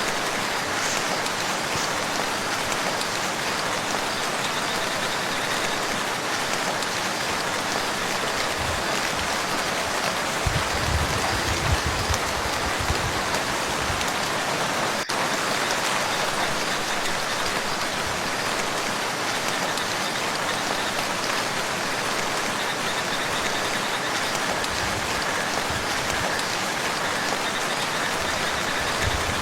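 Steady rain falling on a lake and its shore, an even hiss of drops, with a brief low rumble a little past a third of the way through.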